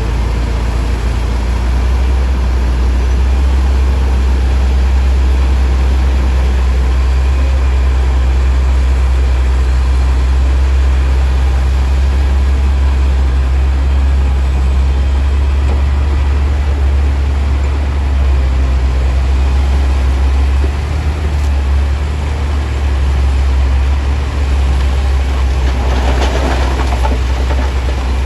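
Heavy diesel earthmoving machinery running, a steady low rumble, with a louder burst of rattling noise near the end.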